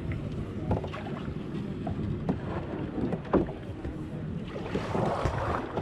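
Kayak on the water: water noise with a few light knocks, swelling near the end.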